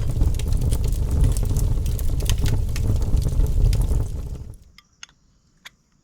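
Loud rumbling noise, like wind buffeting the microphone, peppered with sharp crackles; it cuts off about four and a half seconds in, leaving a faint steady high whine and two soft clicks.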